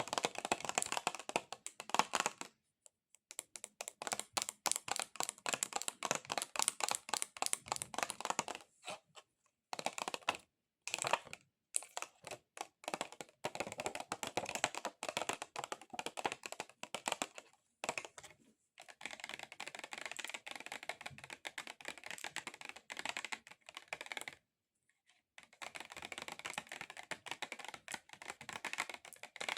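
Extra-long fingernails tapping fast on plastic: dense, rapid clicking in runs, broken by a few short pauses.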